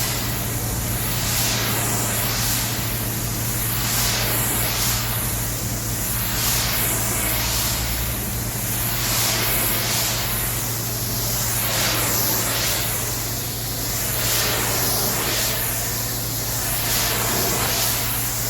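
High-pressure washer jet spraying a dirty truck's bodywork, the hiss swelling and fading about once a second as the wand sweeps back and forth, over a steady low hum.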